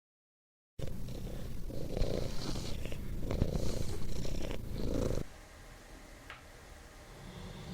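Domestic cat purring close up, swelling and easing in a rhythm with its breaths; it starts about a second in and stops abruptly about five seconds in, leaving faint background noise.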